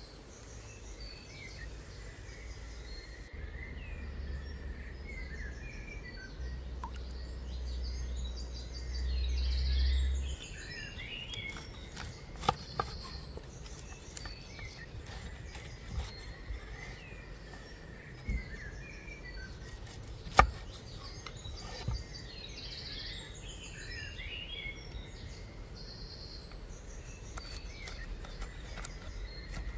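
Wild birds chirping and calling in many short notes over a steady outdoor background, with a low rumble that swells and stops about ten seconds in. A few sharp knocks sound, the loudest about two-thirds of the way through.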